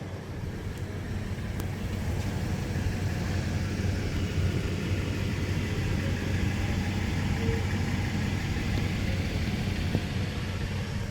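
2008 Toyota Tundra engine idling steadily with a low, even hum, still warming up after a cold start.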